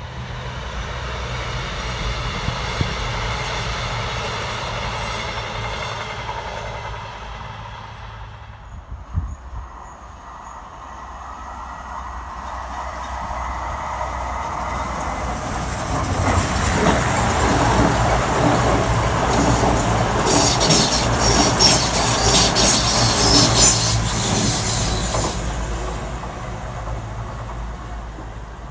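A train running past in the distance, then a Voyager diesel multiple unit coming up the line and passing close by. It grows loud, with a fast clatter of wheels over the rail joints as it goes past, then fades away.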